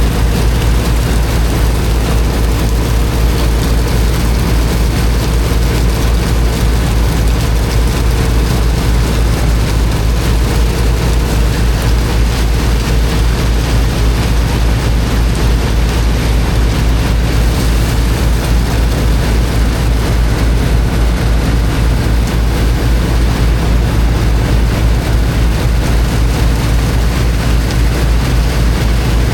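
The engine of a high-pressure water pump running steadily under load with a low, fast-pulsing rumble, over the continuous rushing hiss of the water jet blasting into sand.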